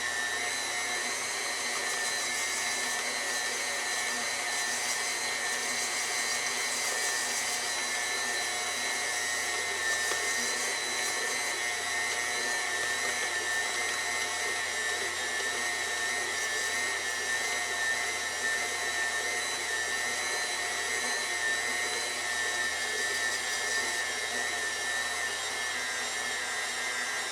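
Electric mixer motor running steadily with an even whine while it mixes a batch of pizza dough.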